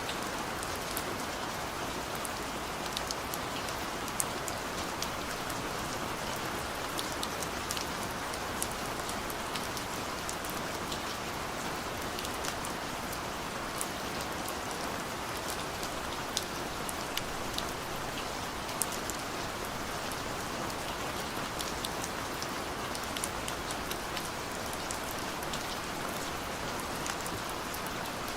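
Heavy rain pouring down steadily, with scattered sharp ticks of individual drops striking nearby surfaces.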